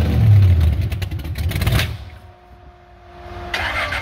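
Supercharged engine of a 1933 Ford hot rod revving hard, then cutting out just under two seconds in. After a quieter gap holding a faint steady tone, it fires back up near the end.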